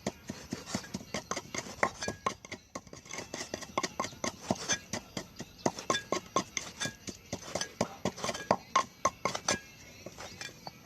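A rapid, irregular run of sharp clinks and knocks of kitchen utensils against dishes, several a second, some with a brief ring, thinning out near the end.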